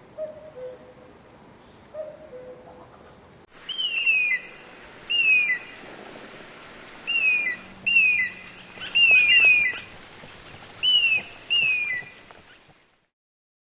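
Bird calls: soft, low two-note hoots repeating for the first few seconds, then, after an abrupt change, a series of loud, high, downward-slurred whistled calls, mostly in pairs, that stop shortly before the end.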